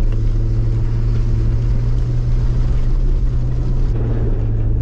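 Jeep Wrangler LJ driving, its engine and drivetrain droning steadily, with a slight change in pitch about four seconds in.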